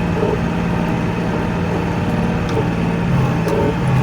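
Kioti NX4510 compact tractor's diesel engine running steadily as the tractor pushes through deep snow.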